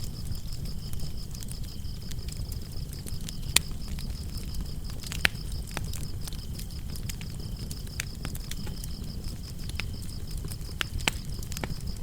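Wood fire burning in a fireplace: a low steady rumble with scattered sharp crackles and pops, the loudest about three and a half and five seconds in. Behind it, crickets chirp in a fast, steady, high trill.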